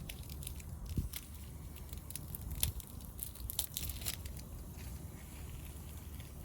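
Hardwood fire crackling in a Picogrill fire pit: irregular sharp pops and snaps, thickest around the middle, over a steady low rumble.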